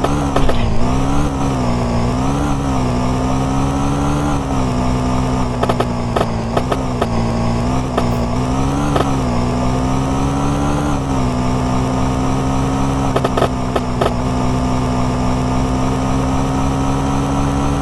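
Small moped engine running under a rider, its pitch rising and falling repeatedly with the throttle for about the first eleven seconds, then holding a steady speed, with occasional short knocks.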